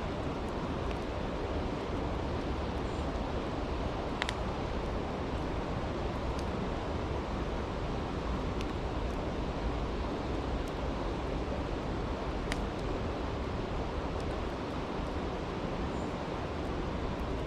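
Steady rushing of a flowing creek, with sparse sharp pops and crackles from a wood campfire, the loudest about four seconds and twelve and a half seconds in.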